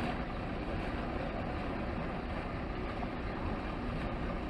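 A motor vehicle's engine running steadily under a constant wash of noise.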